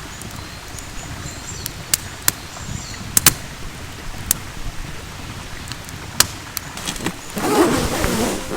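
Wood campfire crackling, with scattered sharp pops over a low steady rumble. A louder, noisier rustle comes near the end.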